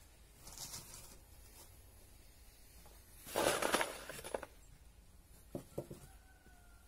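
Quiet room tone broken by a brief clattering rustle about three seconds in and a couple of light knocks near the end, the handling noises of working with wooden boards.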